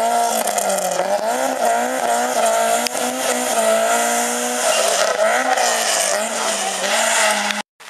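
Rally car engine revving hard as the car powers out of a tight corner and accelerates away, the revs rising and dipping several times through throttle and gear changes. The sound cuts off suddenly near the end.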